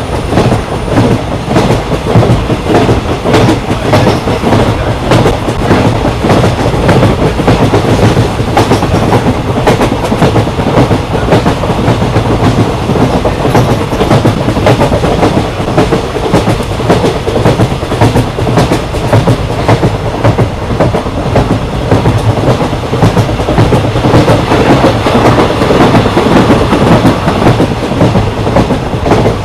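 Passenger train running at speed: steady rumble and rattle of the coach, with wheels clicking over rail joints.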